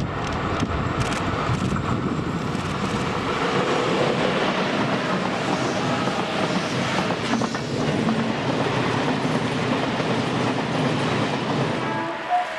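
Freight train running past, its wheels and wagons rattling and clattering over the rails in a steady, continuous rumble.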